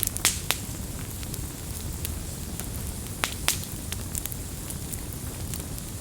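Campfire burning with a steady low rumble and scattered sharp crackles and pops, a cluster of louder pops just after the start and another pair about three and a half seconds in.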